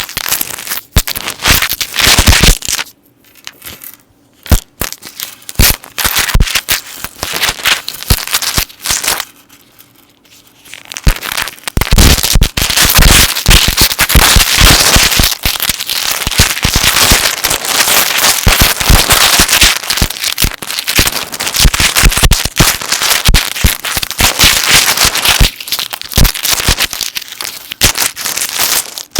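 Metal necklace chains handled close to the microphone: dense clinking and jingling of the links, with sparser single clicks in two quieter stretches in the first ten seconds, then a continuous rattling run of clinks from about twelve seconds on.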